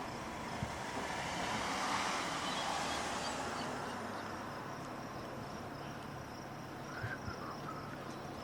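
Outdoor ambience: a steady rushing noise that swells about two seconds in and slowly fades, with a faint high steady whine and a few small chirps near the end.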